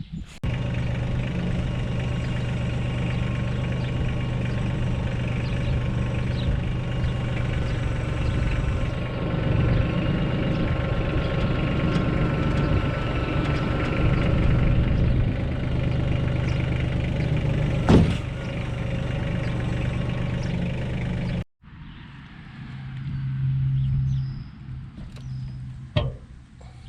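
A vehicle engine running steadily with a low hum. There is one sharp knock about 18 seconds in. The sound cuts off abruptly about 21 seconds in, and a quieter engine hum follows with another knock near the end.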